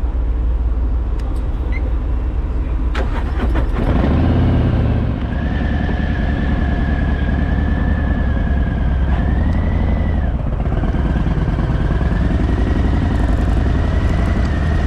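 Harley-Davidson V-twin engine running with a steady low rumble as the motorcycle boards the ferry, with a few sharp metallic knocks about three to four seconds in. From about five seconds in, a steady high whine sits over the engine.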